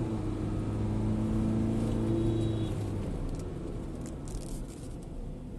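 MG Gloster SUV's diesel engine dropping to a lower, steady note as the throttle is eased off, then fading to a low rumble after about three seconds as the car slows: an acceleration run broken off.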